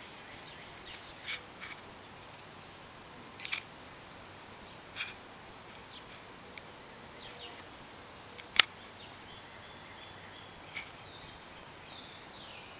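Male oriole giving short, scattered call notes, a few of them sliding downward near the end: scolding calls of a bird that has spotted a person nearby. A single sharp click about two-thirds of the way through is the loudest sound.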